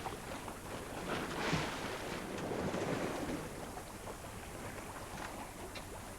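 Sea water washing and splashing along a sailing yacht's hull as it moves under sail, with wind buffeting the microphone. The wash swells about one and a half seconds in and again around three seconds in.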